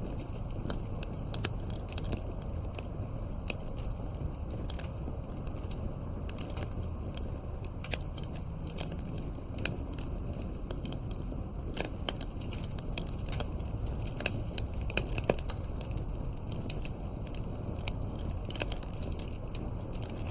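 Campfire burning with a steady low rumble and frequent sharp crackles and pops of burning wood, irregularly spaced throughout.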